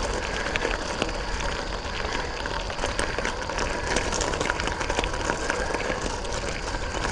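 Sirrus X bicycle's tyres rolling over wet gravel, a steady crunching crackle of small stones.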